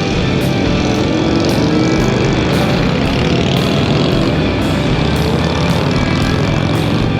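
Motorcycle engine running under way, with electric-guitar rock music playing over it.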